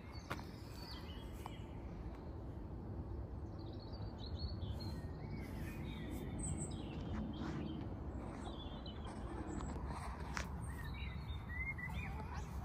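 Several small birds chirping and singing in short, scattered phrases over a steady low outdoor rumble.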